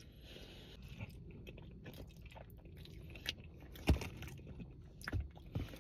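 A person chewing and biting food close to the microphone, with a few sharp crunches, the loudest about four seconds in.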